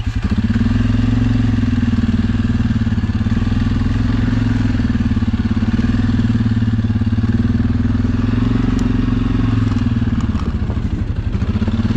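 Suzuki KingQuad ATV engine running under throttle while riding through snow. It picks up just after the start, eases off briefly about ten and a half seconds in, then pulls again near the end.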